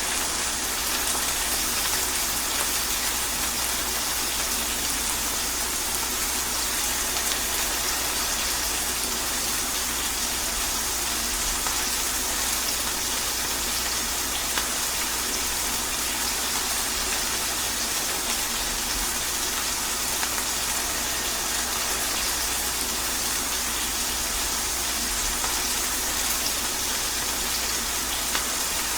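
Steady rain: an even, unbroken hiss with no single drops or thunder standing out, and a low rumble underneath.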